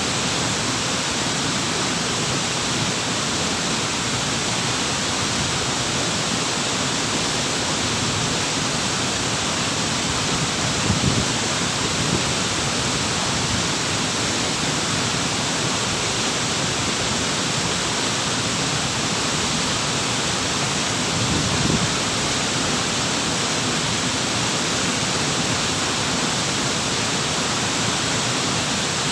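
Waterfall: water falling and rushing in a steady, unbroken wash, with two brief, slightly heavier low surges about eleven and twenty-one seconds in.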